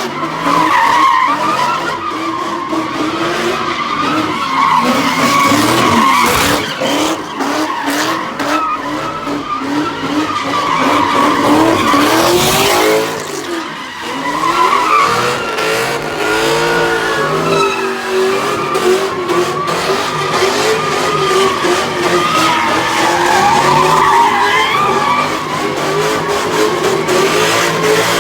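Car engines revving up and down while tyres squeal and skid, a loud continuous din with a short lull about halfway through.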